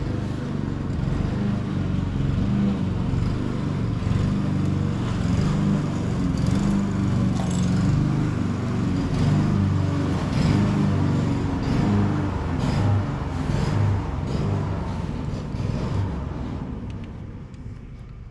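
An engine running steadily with an uneven rumble, fading out over the last couple of seconds.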